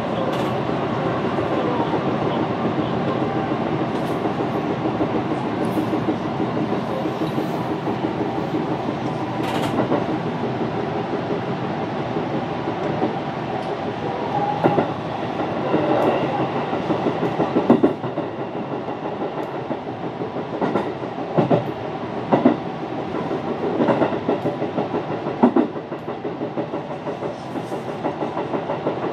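Running noise inside a JR Nara Line rapid train's passenger car: a steady rumble of wheels on rail, with scattered sharp clacks in the second half as the wheels pass over rail joints.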